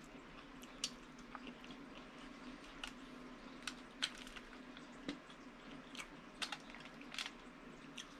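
Close-up mouth sounds of someone eating angel hair pasta and sausage with her fingers: chewing with scattered short wet smacks and clicks, over a steady low hum.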